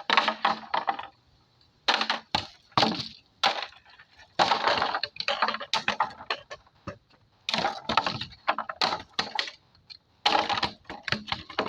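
Cinnamon Toast Crunch cereal being crunched and chewed close to the microphone: loud crackly crunches in short runs of quick strokes with brief pauses between them.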